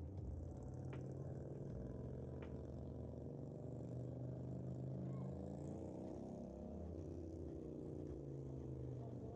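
A car engine running at low speed close by: a steady low hum whose pitch rises and then falls in the middle. Two faint clicks are heard in the first few seconds.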